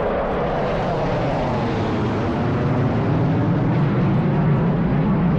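Jet noise of an F-16 Fighting Falcon making a flyby: a loud, steady rush whose pitch slides gradually lower as the jet passes and moves away.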